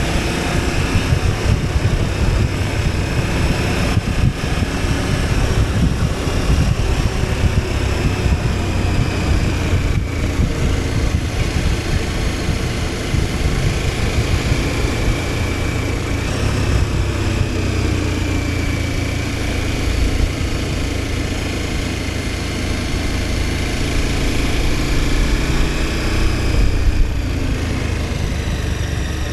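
KTM 1290 Super Adventure S's V-twin engine running as the motorcycle is ridden, its pitch rising and falling gently with the throttle over a steady low wind rumble.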